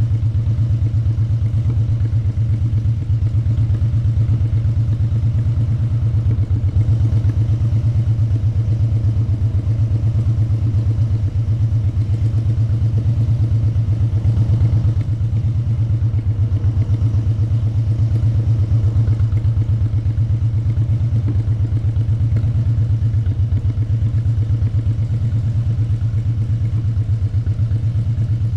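Motorcycle engine running at a steady cruise under the rider: a loud, even low drone with a fast pulsing beat, with little change in pitch.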